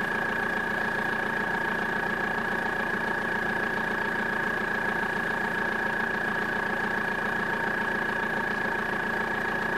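Audi A4 B5's tuned 1.9 TDI four-cylinder turbodiesel idling steadily with a diesel clatter, heard through its exhaust, a steady high whine running over it.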